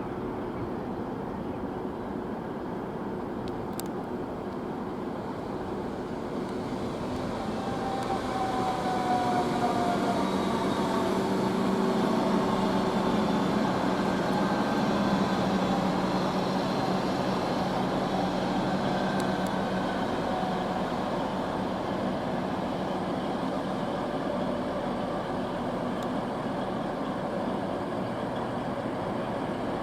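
A train running past, its rumble growing louder to a peak about ten to sixteen seconds in and then easing. Thin wheel-squeal tones come over it, one gliding down about eight seconds in and short higher squeaks later.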